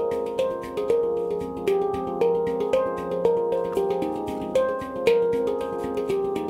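F minor handpan made by Oasis Sound Sculpture, played by hand: struck notes ring on and overlap in a steady, flowing melody, about two strokes a second.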